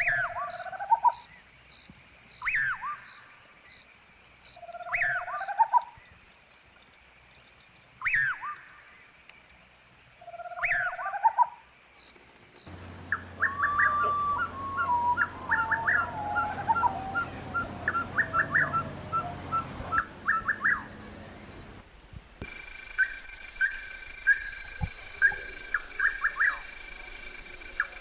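Birds calling. At first one call repeats about every two and a half seconds: a sharp falling note, then a short rising one. About halfway through the sound changes abruptly to a run of quick repeated notes with a falling phrase. Near the end it changes again to short chirps over a steady high whine.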